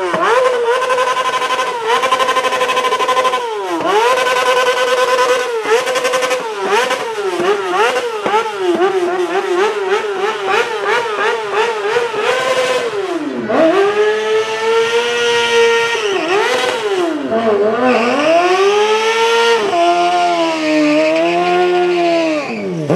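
Motorcycle engine revving hard, over and over. Its pitch jumps up and down with quick throttle blips, then turns to longer revs that rise, are held and fall in the second half.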